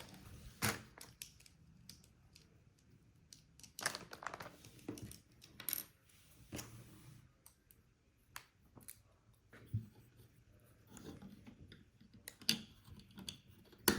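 Lego pieces being handled and pressed together: irregular light plastic clicks and small rattles, with short quiet gaps between them.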